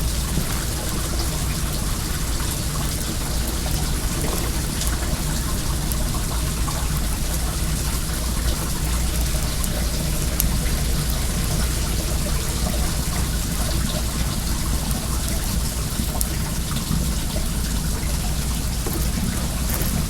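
Well water flowing steadily, with faint crackling from a wood bonfire.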